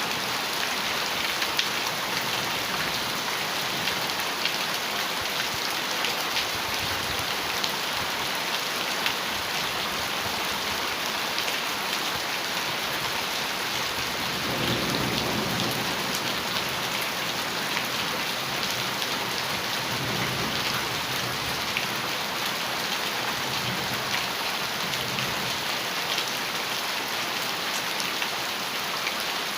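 Heavy rain falling on a metal roof: a steady, dense patter with sharp ticks of single drops. About halfway through, a low rumble of thunder swells for a couple of seconds, with fainter rumbles after it.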